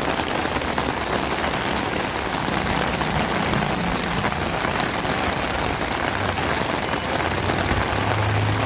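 Heavy rain falling steadily. A low engine hum comes up and grows louder near the end.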